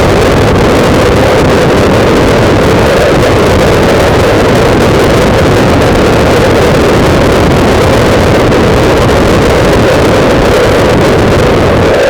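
Heavy wind buffeting on the microphone of a camera mounted on a motorcycle being ridden along, very loud and steady, with the motorcycle's running mixed in underneath.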